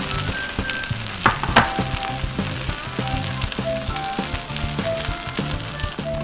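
Takoyaki batter balls sizzling in an electric takoyaki pan as they are turned with a skewer, with two sharp clicks about a second and a half in. Soft background music with a repeating bass pattern plays underneath.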